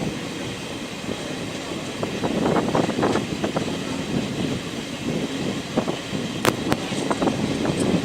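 Train running along the track: a steady rumble and rattle of the moving coach, with a sharp metallic click a little over six seconds in.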